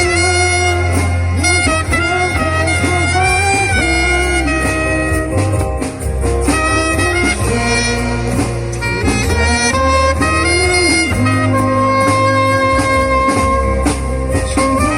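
Live band playing loud amplified music: a heavy, steady bass line under a lead melody that wavers in pitch.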